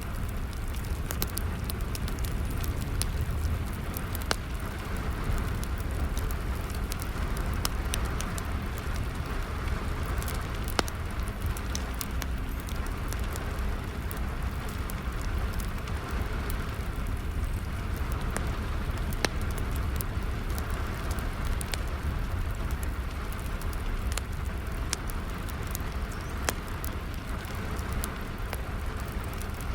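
Wood fire crackling with scattered sharp pops over steady rain, with a low steady rumble underneath.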